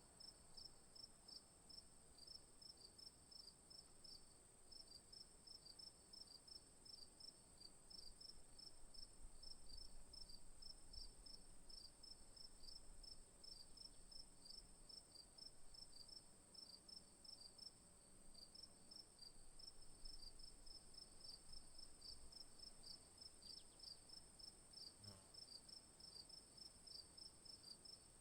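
Faint insect chorus: a steady high-pitched buzz with a train of short chirps just below it, repeating a few times a second.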